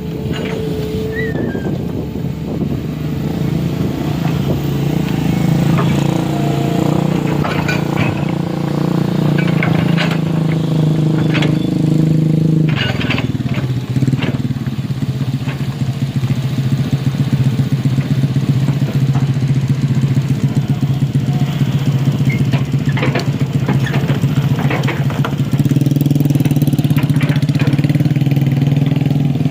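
A vehicle engine running steadily and hard, its note dropping suddenly about halfway through and rising again near the end, with scattered clanks and knocks over it.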